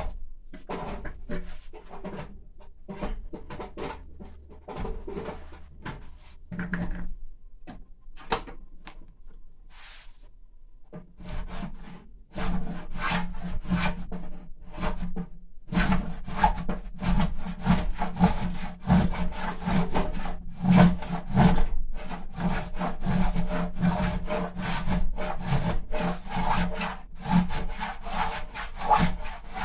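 A carving tool scraping and shaving mulberry wood in quick, irregular strokes as the walls of a carved trough are thinned. It is sparse and quieter for a few seconds before the middle, then dense and louder for the rest.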